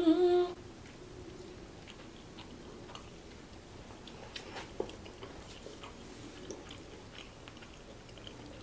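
A woman briefly hums a pitched 'mmm' at the start, then quietly chews a mouthful of macaroni and cheese with small wet mouth clicks. A few light clicks come around the middle as a metal fork works the pasta in a glass bowl.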